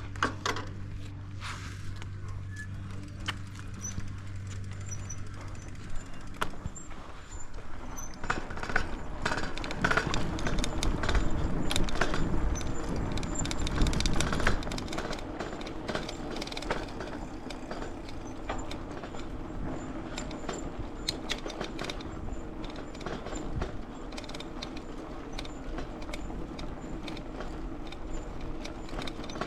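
A Cradiac Alpha mountain bike ridden over rough ground: a steady stream of rattling clicks and knocks with rushing noise, getting louder about eight seconds in and easing off again about halfway through. A steady low hum sounds under the first several seconds and then stops.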